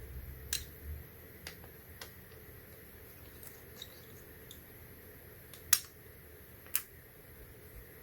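Scattered light clicks and taps of a small screwdriver and tiny screws being worked on the inside of an opened MacBook Air, with a brief handling rumble at the start and two sharper clicks later, about a second apart.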